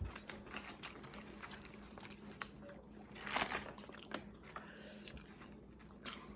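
Close-up chewing and biting into a fried chicken sandwich, with scattered small crunches and one louder crunch a little over three seconds in.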